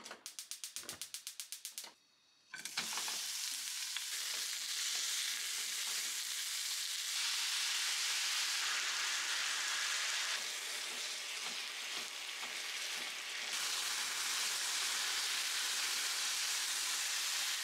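A gas hob's igniter clicks rapidly, about seven times a second, for roughly two seconds. Then sliced lotus root and carrot go into hot oil in a frying pan and sizzle steadily while being stir-fried for kinpira.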